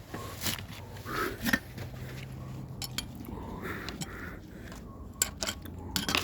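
Scattered clinks, knocks and short scrapes of hard objects being handled, such as tools and metal fittings, with the sharpest knocks near the end, over a faint low steady hum.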